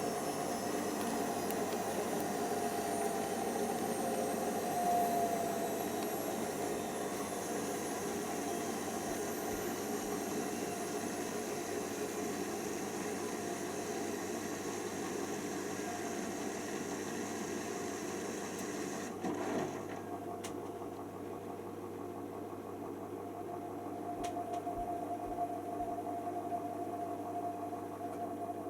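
Hoover Nextra HNWL7146 washer dryer running its drying cycle: a steady mechanical hum with a motor tone and hiss. About two-thirds of the way through the higher hiss drops away around a couple of clicks, and the machine runs on more quietly.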